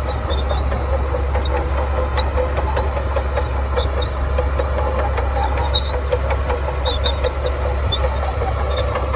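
Heavy diesel engine of earthmoving machinery running steadily: a deep low rumble with a light knocking rattle over it.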